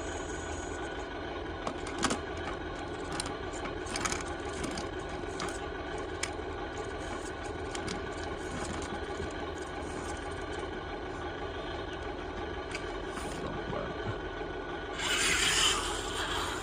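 Electric motors and gearboxes of a radio-controlled Huina toy excavator whirring steadily, with scattered clicks and scrapes. A short, louder rush of noise comes near the end.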